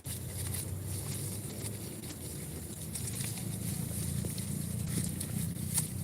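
Goats grazing close by: scattered small clicks and knocks of hooves and mouths working the vegetation, over a low steady rumble.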